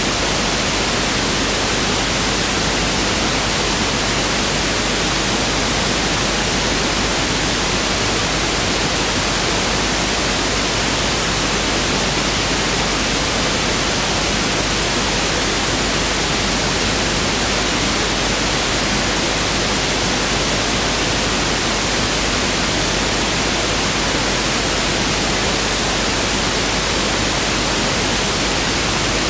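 Pink noise test signal: a loud, steady hiss that never changes.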